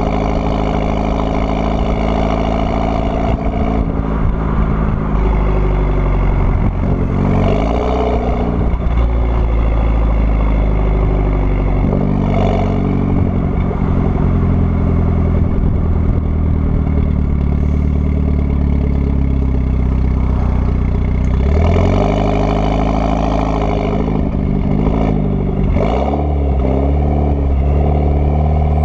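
Mitsubishi Lancer Evolution X's turbocharged 2.0-litre four-cylinder running through an AMS widemouth downpipe, cat and catback twin-tip exhaust. The engine note rises and falls in pitch several times as the revs change, with steady running in between.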